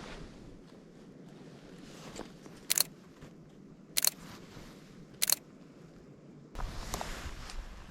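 Camera shutter of a Sony A7III firing three single shots, each a short sharp click, about a second and a quarter apart. Near the end a louder rustling noise sets in.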